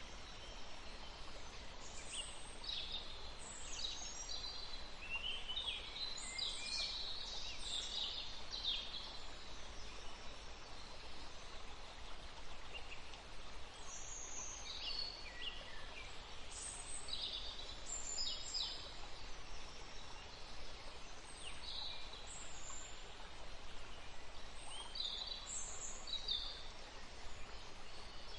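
Forest songbirds singing over a steady rushing stream: many short high chirps and trills, in clusters, above the constant hiss of flowing water.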